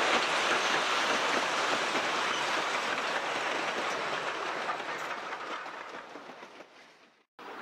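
Heritage train of timber carriages and a South Australian Railways Rx-class steam locomotive rolling past, wheels clattering over the rail joints. The clatter slowly fades as the train moves away, then cuts off abruptly near the end.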